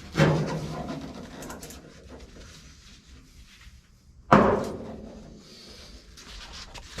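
Two sharp knocks about four seconds apart, each fading away over about a second, from tools or parts handled against a car door during hand work.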